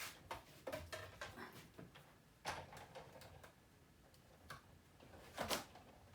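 Clicks and knocks from a Big Shot hand-cranked embossing machine as an embossing folder is fed through it: a run of quick ticks over the first second and a half, then sharper single knocks about two and a half and five and a half seconds in.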